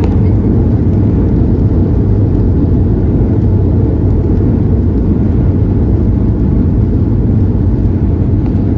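Airliner landing: a loud, steady low rumble that holds even throughout.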